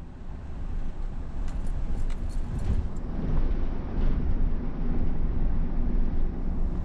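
Car driving on a city street: a steady low rumble of engine and tyre noise, with a few faint clicks between one and a half and three seconds in.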